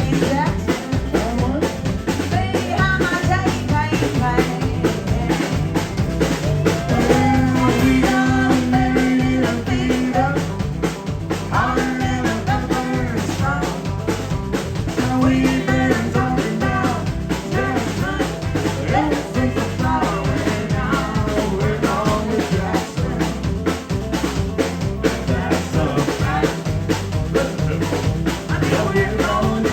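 Country band playing, with a drum kit keeping the beat on rimshots and bass drum under bass and a melodic lead line.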